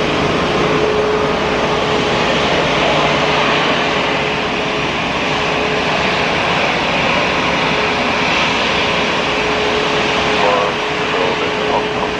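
Jet airliner engines running close by: a steady rushing noise with a constant whine held throughout.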